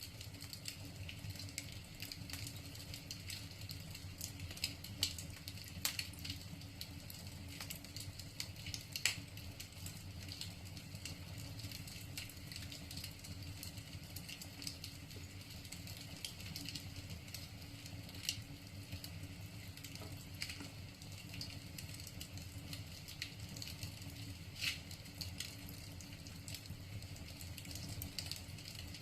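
Wood fire crackling in a fireplace: irregular sharp pops and snaps over a steady low background, with a louder snap about nine seconds in and another near twenty-five.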